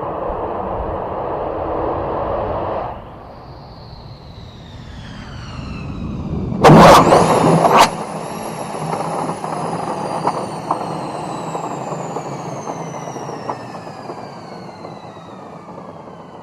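Fighter jet engine whine, several tones falling slowly in pitch, with a very loud roar about seven seconds in that lasts about a second.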